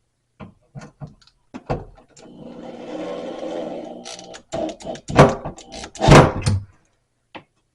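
A screw being driven into a TV wall-mount bracket with a power driver. A few light clicks, then the small motor runs steadily for about two seconds, then several sharp knocks, the loudest just after the motor stops.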